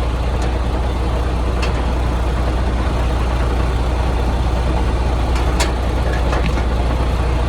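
Semi-truck diesel engine idling steadily, with a few short sharp clicks over it.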